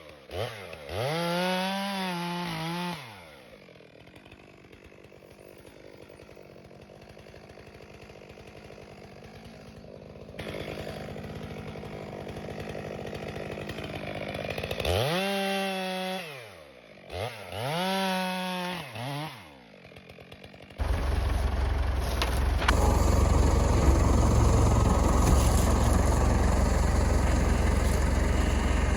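Stihl MS 462 chainsaw revving in bursts, its pitch rising and falling, dropping back to a quieter low idle in between. About 21 seconds in the sound changes abruptly to a loud, steady, low tractor engine rumble.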